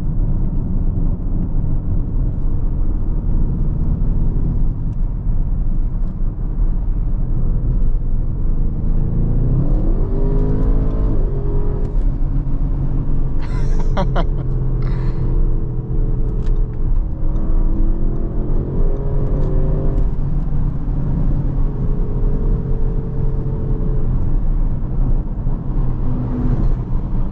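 Audi RS7's V8 engine and road noise heard from inside the cabin: a steady low drone, with the engine note rising as the car accelerates about ten seconds in and changing pitch again a few times later.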